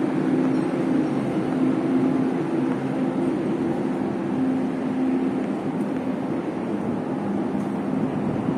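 Steady running hum of a stationary Chu-Kuang express train, its machinery droning with a constant low tone and no change in pitch.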